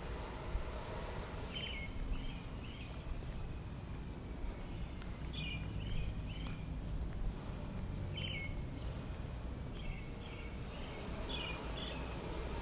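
Small birds chirping in short clusters of quick notes, over a steady low background rumble.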